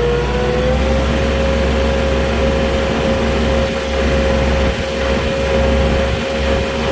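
Moffett truck-mounted forklift driving with its engine running steadily, a low rumble under a strong steady whine that rises a little in pitch about a second in and then holds.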